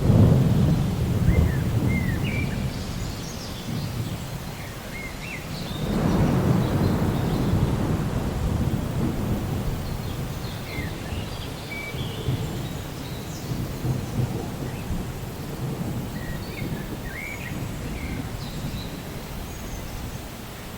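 Thunder rolling twice, once at the start and again about six seconds in, each rumble fading over several seconds, over a steady hiss of rain. Short chirping bird calls come and go throughout.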